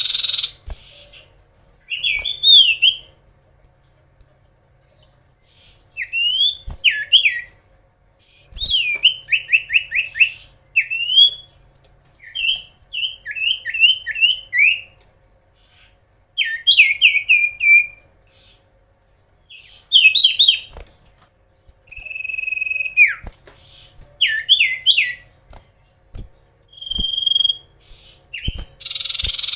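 Common iora (cipoh) singing: phrase after phrase of quick whistled notes that slide up and down, each phrase lasting a second or two, with short pauses between phrases. A single held whistle comes near the end.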